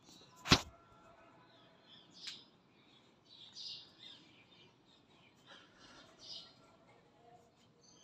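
Small birds chirping in short separate calls. A sharp knock about half a second in is the loudest sound, and a fainter click comes about two seconds in.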